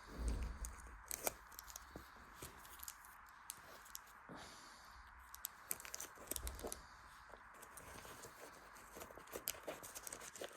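A cat rummaging through household belongings: scattered light rustling, crackling and small clicks of things being nosed and pushed about, with a soft thump at the start and another about six seconds in.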